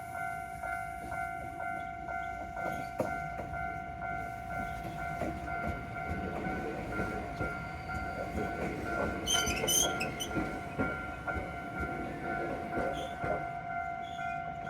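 A train passing over a level crossing, its wheels rumbling and clattering on the rails, while the crossing's warning signal rings in one steady tone. A short burst of high-pitched squealing comes a little past the middle.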